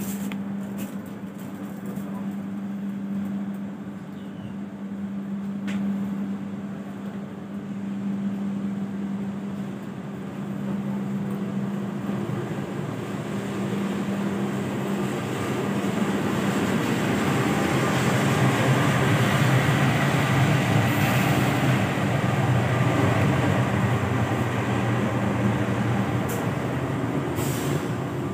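Passenger train running: a steady hum with rail noise that grows louder over the first two-thirds, then stays loud.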